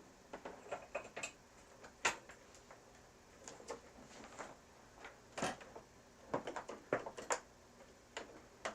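Irregular light clicks and knocks of studio gear and cables being handled while searching for a power plug, with a sharper knock about two seconds in and a cluster of clicks around six to seven seconds.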